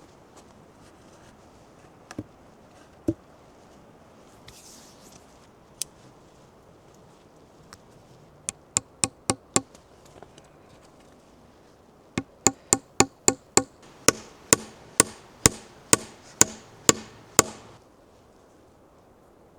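Hand tool striking wood, a few scattered knocks and then a quick run of five blows. After a short pause comes a steady run of about fourteen hard strikes at two or three a second, which stops short.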